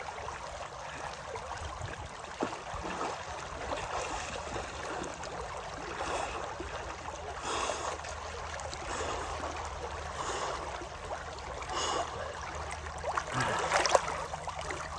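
Water running steadily in a stream, with brief louder swells every second or two and a sharper one near the end.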